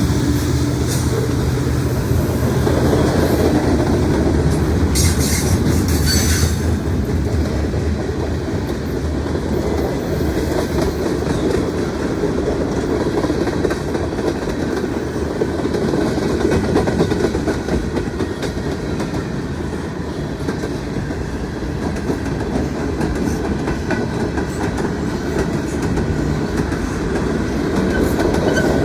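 Mixed freight train's cars rolling past: a steady loud rumble with wheels clattering over the rail joints and a brief higher-pitched rattle about five seconds in.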